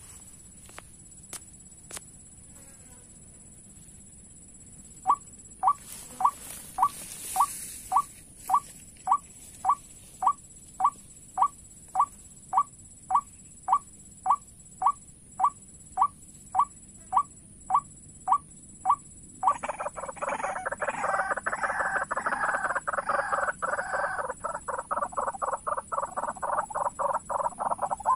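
White-breasted waterhen (ruak-ruak) calling: a short call repeated evenly about twice a second, then from about two-thirds of the way through a fast, dense chattering run of calls.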